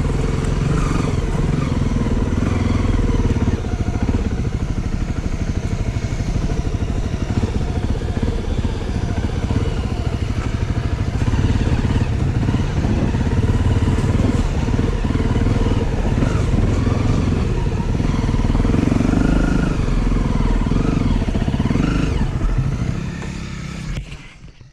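Dual-sport motorbike engine running steadily as the bike is ridden, fading out near the end.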